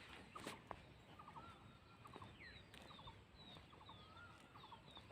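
Birds calling faintly: quick groups of three or four short chirps repeating every half second or so, mixed with thin slurred whistles that glide down in pitch.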